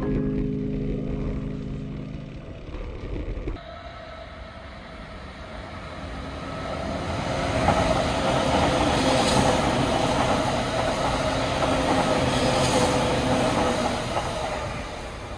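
Electric commuter train passing below, its running and rail noise swelling to loudest about halfway through and fading toward the end, with a steady hum riding on it.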